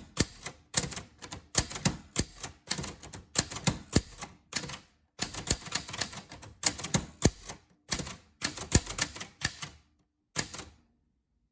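Typewriter keys striking in quick runs with short pauses between them as text is typed. A last stroke comes after a brief gap, then it stops shortly before the end.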